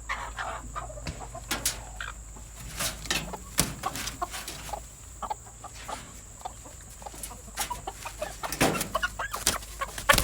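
Laying hens clucking, with scattered sharp clicks and knocks among the calls.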